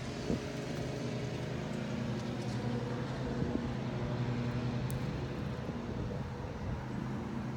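A steady, even mechanical hum from a running engine, with a few faint knocks.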